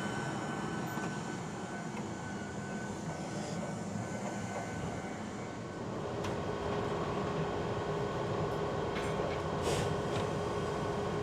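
Two-car electric train running on the line: a steady rumble, with a steady whine joining about six seconds in.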